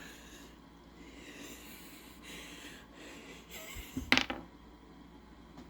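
A person's faint breathing, then a short, sharp gasp about four seconds in.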